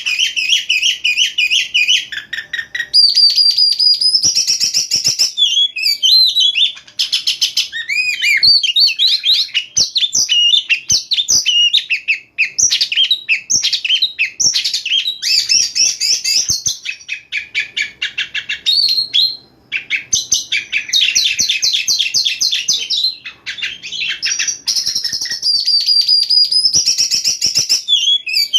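Oriental magpie-robin (kacer) singing hard: a continuous, varied, high-pitched song of sliding whistles, fast repeated notes and rapid chattering trills, with a few brief pauses.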